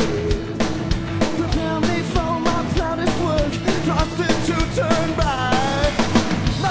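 Rock band playing a song, with a sung vocal line over a steady drum beat and guitars.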